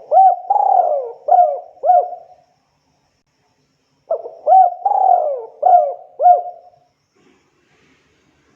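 Spotted dove (tekukur) cooing: two phrases of about five short hooked coos each, separated by a pause of about two seconds, then quiet near the end.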